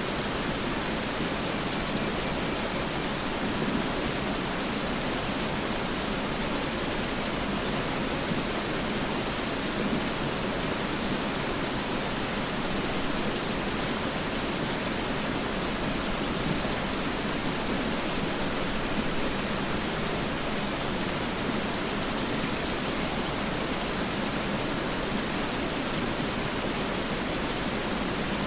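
Mountain river flowing over rocks: a steady, even rush of water with no change throughout.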